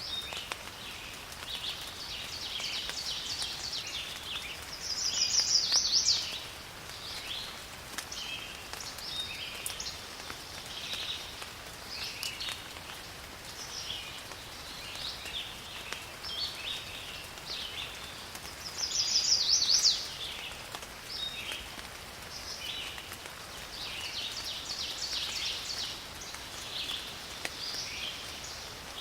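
Rain falling in a forest with many birds calling throughout. Twice, about five seconds in and again near twenty seconds, a louder bird call of rapid high notes lasts about a second.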